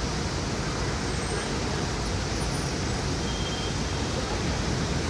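Steady, even rush of water pouring down a waterfall.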